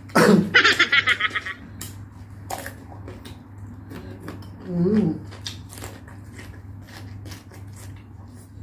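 Crisp crunching and chewing of raw cucumber close to the microphone: a string of sharp crackles as it is bitten and chewed.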